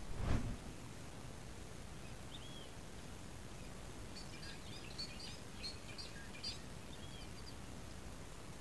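Wild birds calling in the bush: scattered short, high chirps, a quick cluster of them in the middle, over a steady low outdoor background noise. A brief loud rush of noise comes just after the start.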